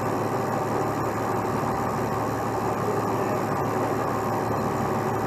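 Heavy truck's diesel engine running steadily at idle.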